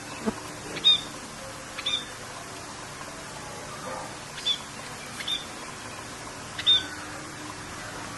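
Birds chirping over a steady hiss of rain: short high chirps come about six times, spaced irregularly.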